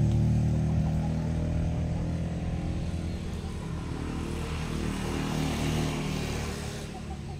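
A motor vehicle's engine hum fading as it passes and moves away, with some road or tyre hiss near the end.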